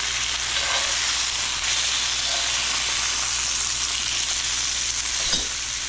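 Grouper fillets frying in ghee in a cast iron pan, just turned over: a steady sizzle, with a single light knock about five seconds in.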